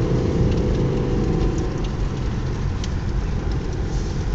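Car engine and road noise heard from inside the cabin while driving, a steady low rumble with a few faint ticks.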